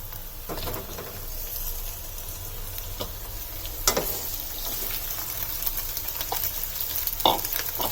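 Raw chicken pieces sizzling steadily in hot oil with sautéed onions and ginger garlic paste, as the meat starts to fry. A few sharp clicks of a utensil against the pan come about 3, 4 and 7 seconds in.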